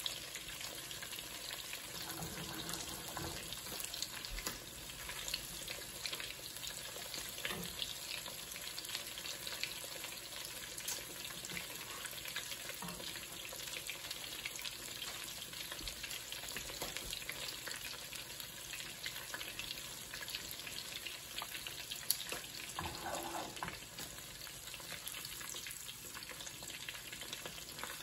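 Breaded pork cutlets shallow-frying in hot oil in a nonstick pan, a steady crackling sizzle with scattered sharper pops.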